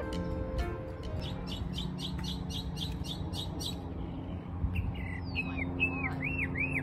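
A songbird singing loudly and persistently. First comes a fast series of short chirps, about four a second; after a pause it switches to a phrase of repeated slurred, arching notes, about three a second.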